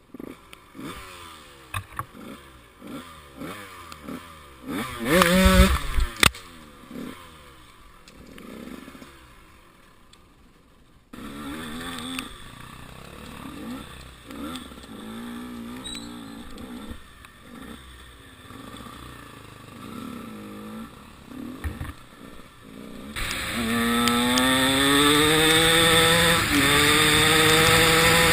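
Enduro motorcycle engine revving up and down again and again, with a loud knock about five seconds in. Near the end the engine runs louder, its pitch climbing.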